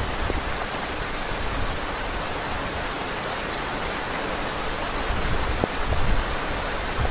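Heavy rain falling steadily in a dense hiss, with low gusts of wind swelling in now and then, most strongly near the end.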